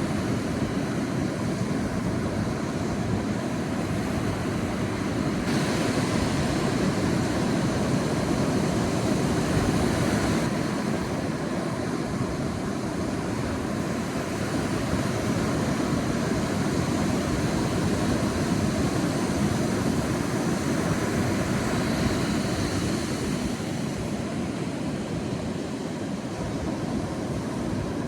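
Sea waves washing onto a beach in a steady rushing surf, swelling and easing over several seconds, with a brighter wash of spray about five to ten seconds in.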